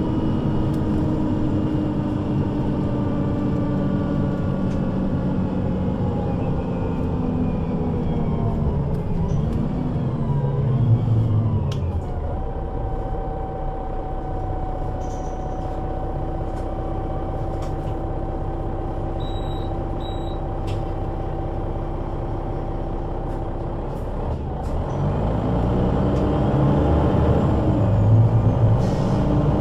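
Engine and Voith automatic gearbox of a 2005 Solaris Urbino 12 III city bus: running steadily at first, then the whine falls in pitch as the bus slows to a stop about twelve seconds in. It idles for about twelve seconds with a steady tone, then pulls away again, the engine and gearbox pitch rising near the end.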